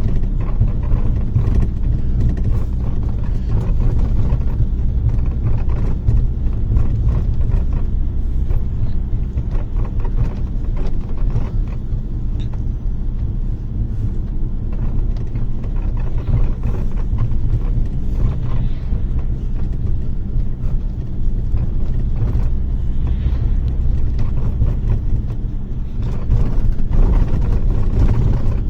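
Inside a moving bus: a steady low rumble of engine and road, with frequent small knocks and rattles from the body.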